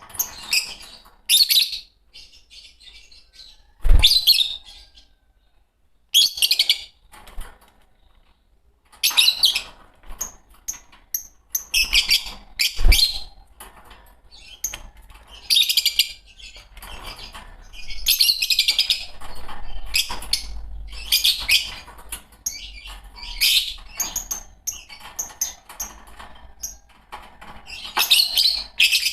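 A pair of green Fischer's lovebirds chirping and chattering in repeated sharp, high-pitched bursts, with two knocks, about four and thirteen seconds in.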